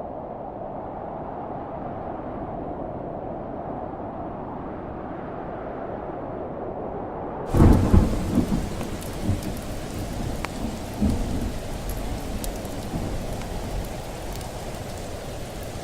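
A muffled low drone, then about halfway through a rainstorm breaks in at full clarity with a loud thunderclap. The thunder rumbles in a few swells over the next several seconds and dies away under steady rain.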